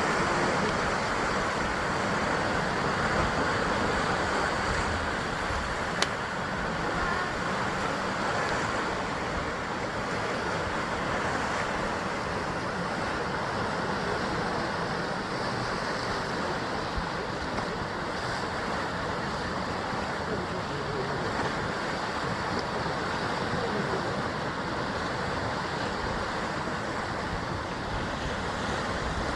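Sea surf washing against the basalt columnar-joint rocks of the coast, a steady rushing wash that swells and eases gently. One sharp click about six seconds in.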